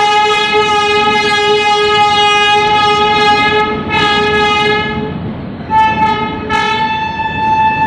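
Train horn sounding as the Rajdhani Express pulls out: a long two-note blast lasting about five seconds, then after a short break the horn sounds again on the higher note alone.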